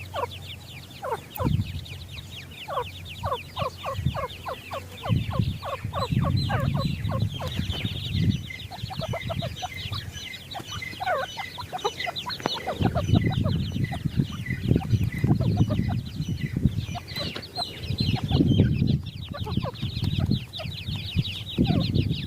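A group of partridge chicks peeping without pause: rapid, high, downward-sliding peeps overlapping with lower chirps. Bouts of low rumbling noise come and go beneath them.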